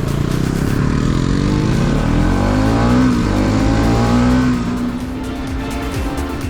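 Bajaj Pulsar NS200's single-cylinder engine pulling away and accelerating, its pitch rising twice as it climbs through the gears, then quieter and steadier near the end.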